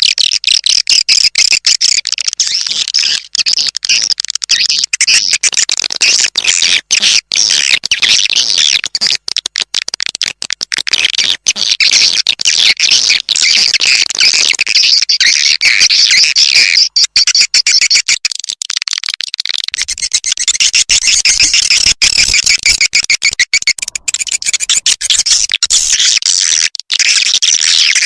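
Swiftlet lure recording: dense, unbroken high-pitched chirping and twittering of edible-nest swiftlets, a call sound played to draw swiftlets into a bird house.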